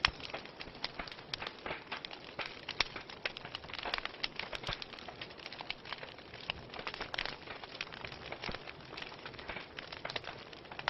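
Wood fire burning in a fireplace: irregular crackles and pops over a soft steady hiss.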